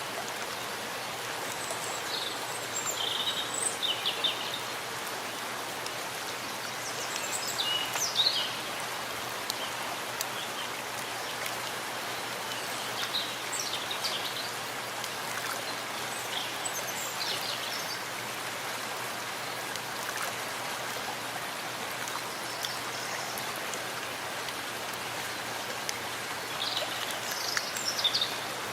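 Steady rain falling in a forest, an even hiss of drops. Short, high bird chirps come through it a few times.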